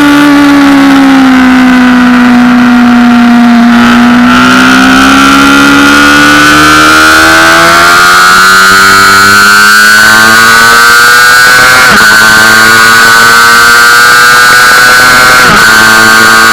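Honda CBR600RR sport bike's inline-four engine under load on track, heard onboard: the engine note eases for a few seconds, then rises steadily through a long pull, broken twice late on by quick gear changes.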